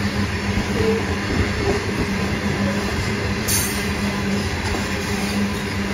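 Freight train's covered hopper wagons rolling past: a steady rumble of steel wheels on rail, with one brief high, sharp sound from the wheels about halfway through.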